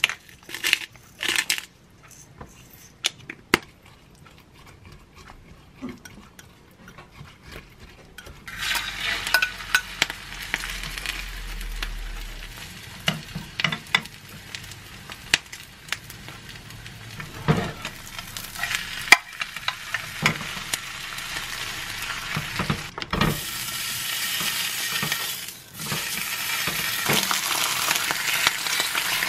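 A few sharp clinks in the first couple of seconds, then a cabbage-and-egg mixture starts sizzling in a hot square nonstick pan about eight seconds in, with a metal spoon scraping and tapping as it is shaped. The sizzling grows louder near the end as duck-meat slices fry in the same pan.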